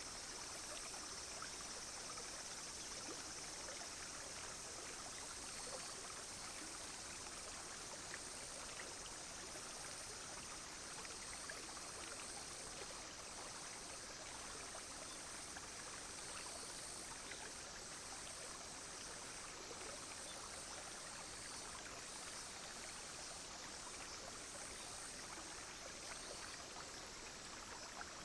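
Small clear stream flowing steadily, with a constant high-pitched buzz of cicadas and other insects over the water.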